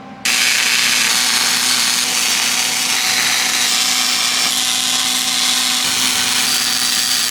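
Electric arc welding a bead: a steady, loud crackling hiss that strikes up a moment in and holds evenly.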